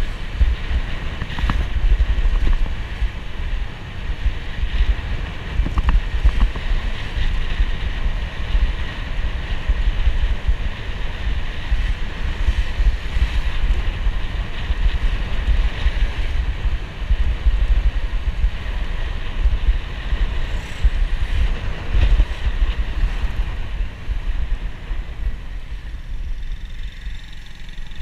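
Motorcycle riding noise picked up by a body-mounted action camera: heavy wind buffeting on the microphone over the bike's engine and road noise, easing a little near the end.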